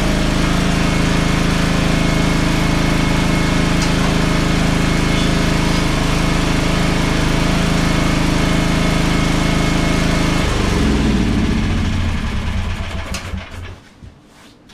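Weedeater lawn tractor engine running steadily in freezing cold, its throttle cable probably frozen. About ten seconds in it is shut off, and it runs down with falling pitch and stops a few seconds later.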